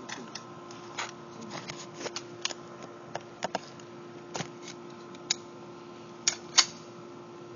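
A dozen or so irregular sharp clicks and taps, light handling or mechanical clicks, the loudest a pair about six and a half seconds in. A faint steady hum runs underneath.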